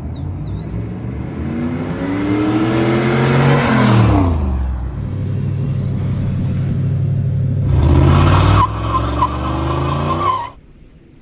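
Car engine accelerating. Its pitch climbs, drops sharply about four seconds in, holds steady, then climbs again before cutting off suddenly about ten and a half seconds in.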